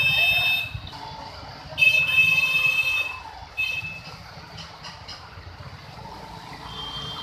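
Vehicle horns honking in short blasts over a steady low traffic rumble: one at the start, a longer one about two seconds in, a brief one just after, and a faint one near the end.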